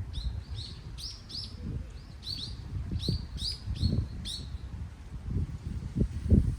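A small songbird chirping, a quick run of about a dozen short high notes over the first four seconds or so, then falling silent. Under it, wind gusts rumble on the microphone, loudest near the end.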